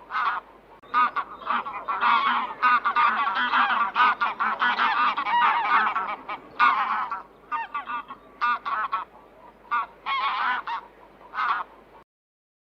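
Several domestic geese honking, their calls repeated and overlapping, thinning out in the second half and cutting off abruptly near the end.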